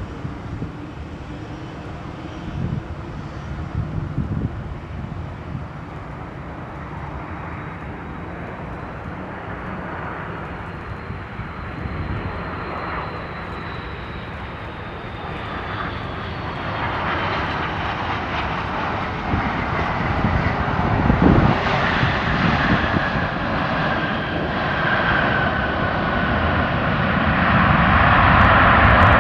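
Airliner engines growing louder as the aircraft approaches, with a whine that falls slowly in pitch; loudest near the end.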